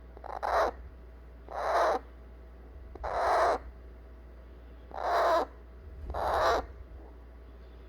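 Baby eclectus parrot giving five harsh begging calls, each about half a second long, one every second or so. It is the chick's fussing cry to be picked up and held after being fed baby food.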